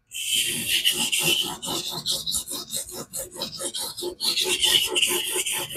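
Knife edge rasping against a coarse King whetstone on a guided fixed-angle sharpener, in rapid repeated strokes that start suddenly after a brief pause.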